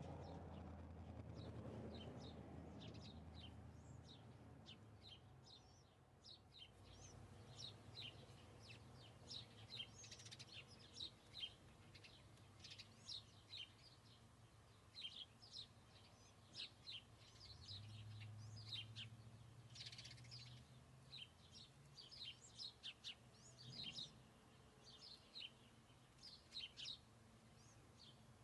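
Small birds chirping: many short, quick chirps following one another. A low rumble fades away over the first few seconds.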